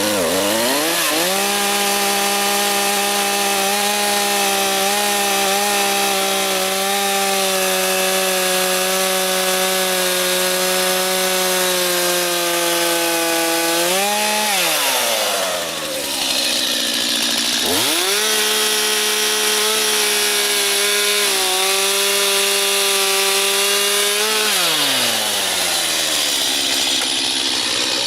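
Stihl chainsaw revving up and running at full throttle as it cuts along a log, its pitch held steady under load. About 15 seconds in it drops back toward idle, then revs up again and cuts for about seven more seconds before falling away near the end.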